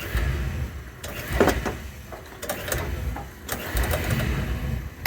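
Oil-fired boiler's burner running with a low rumble, with scattered clicks and knocks.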